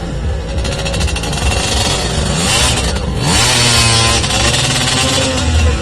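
Off-road race vehicle engine revving hard, its pitch rising and falling repeatedly, loudest about three to five seconds in.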